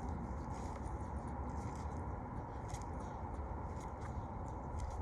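Steady outdoor background noise with a low rumble, and faint scattered small clicks and rustles of handling.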